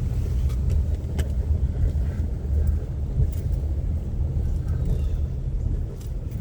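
Car driving slowly, a steady low rumble of engine and road noise, with a few faint clicks.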